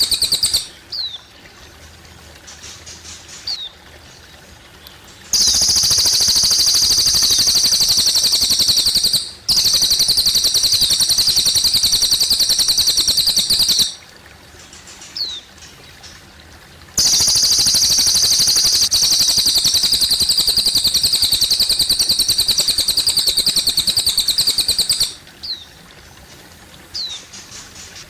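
A cililin bird singing: long, loud, very fast high-pitched trills, each lasting several seconds, three of them, with short sliding chirps in the pauses between. Faint trickling water runs underneath.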